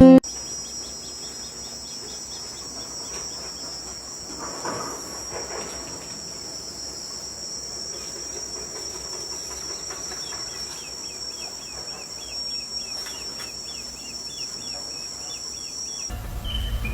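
Steady high-pitched drone of insects, such as cicadas or crickets, with rows of short repeated chirps mixed in. Near the end it changes abruptly to a low rumble.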